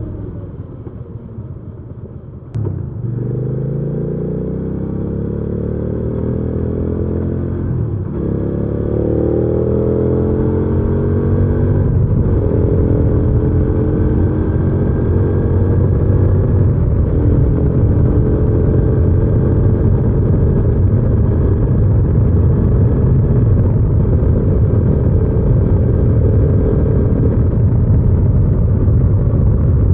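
Hyosung GV300S Aquila 300's V-twin engine heard from the rider's seat while accelerating. A couple of seconds in, a sharp click is followed by the engine note rising in pitch through three pulls, broken by two short dips where gears change. It then settles into a steady cruising note with road noise.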